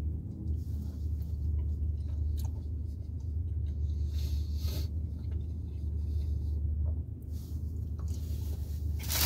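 A person chewing a mouthful of burrito, with soft mouth noises over a steady low hum inside a car. Just before the end, a loud crinkling of a paper wrapper begins.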